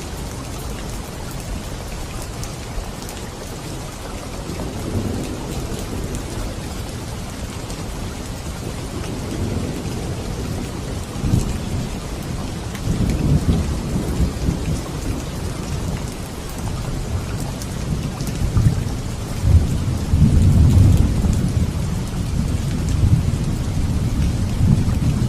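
Thunderstorm: steady heavy rain hissing, with thunder rumbling in deep rolls that swell several times and are loudest a few seconds before the end.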